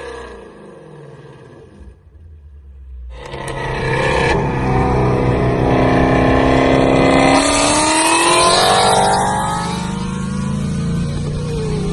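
The 5.2-litre flat-plane-crank V8 of a 2018 Ford Shelby GT350, breathing through catless long-tube headers and a Corsa X-pipe exhaust. It is quiet at first, then comes on hard about three seconds in and climbs in pitch under acceleration. The pitch drops and climbs again, as at a gear change, then settles to a steadier drone near the end.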